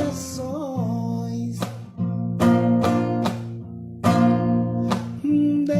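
Acoustic guitar strummed in a slow rhythm, with a singing voice holding a wavering note early on, then the guitar strumming on alone.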